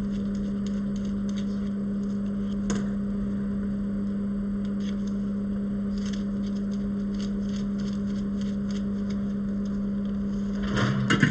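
Steady electrical hum of workbench equipment, a fan or motor running evenly, with light clicks and taps of tools being handled and a short clatter near the end.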